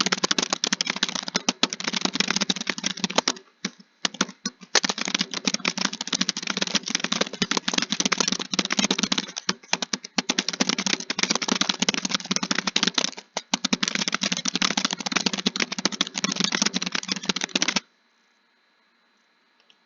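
Fast, continuous typing on a keyboard: a dense clatter of keystrokes with brief pauses about 4 and 10 seconds in. It stops abruptly near the end.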